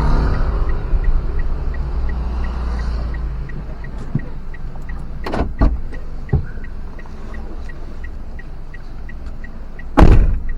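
Vehicle on the move with a low road and engine rumble that eases off, under a light, regular ticking about two and a half times a second. A few short knocks come around the middle, and one loud thump near the end.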